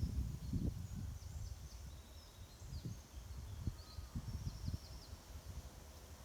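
Scattered low, muffled thumps and rustles from a green woodpecker nest with well-grown chicks, loudest in the first second. Faint high bird chirps and short trills sound in the background.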